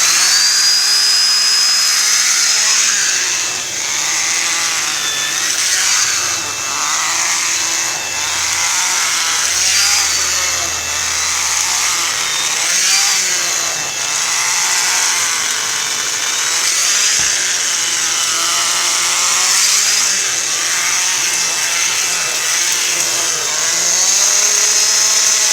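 ProTeam ProForce 1500XP upright vacuum running with a suction-driven turbo brush attachment on its wand: a steady high motor whine with air rush, its pitch dipping and recovering every couple of seconds as the tool is worked.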